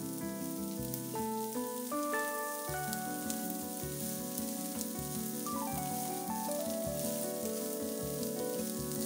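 Diced potatoes with red pepper and garlic sizzling in oil in a nonstick frying pan as a spatula turns them. Background music with a steady beat plays throughout and is as loud as the sizzling.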